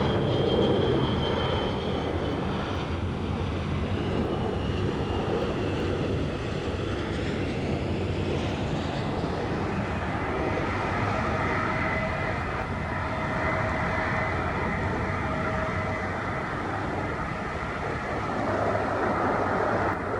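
Jet airliner departing at takeoff power: a steady, heavy rumble of engine noise with faint whining engine tones that come and go and shift in pitch.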